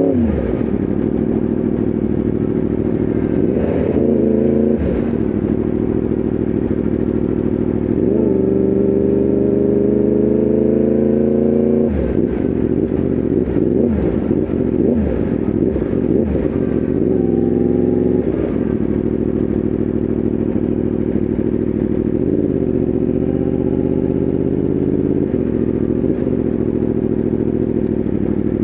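Yamaha R1M's crossplane inline-four engine under way: it pulls through a gear with a rising note, drops suddenly at a shift about twelve seconds in, runs unevenly with clicks for several seconds, then settles to a steady cruise with a few small dips in revs.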